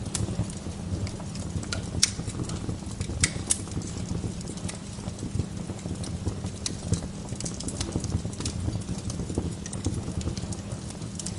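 Wood fire burning in a fireplace: a steady low rumble of flames with irregular crackles and sharp pops, a few louder pops about two and three and a half seconds in.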